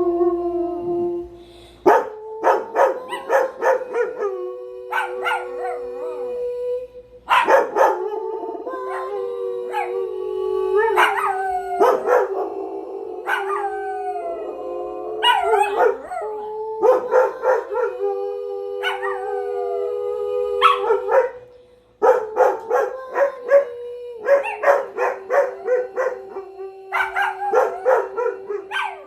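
Dogs howling together, two voices holding long notes at slightly different pitches. Clusters of sharp barks break in every few seconds.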